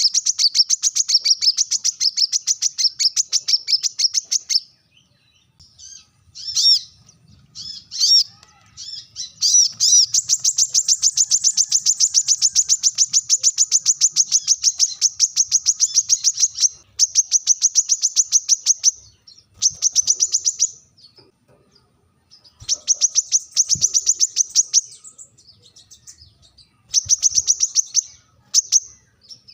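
Brown-throated sunbird (kolibri kelapa) giving sharp, high-pitched, fast trills. A long trill opens, a longer one comes in the middle, and shorter bursts with pauses follow. This is its call for challenging a rival.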